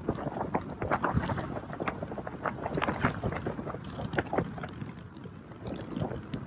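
Gusty wind buffeting the microphone, with many irregular short crackles and knocks.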